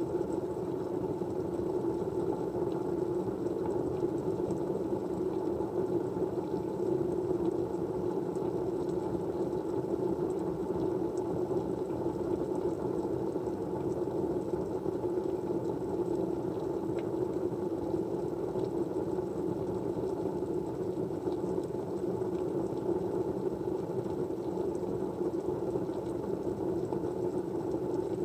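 Steady, low, muffled rushing noise, a white-noise background that stays even throughout, with a few faint ticks over it.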